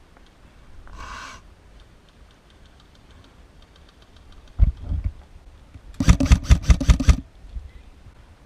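Airsoft electric rifle firing one quick burst of about nine shots lasting just over a second. A short rustle and a low thump come before it.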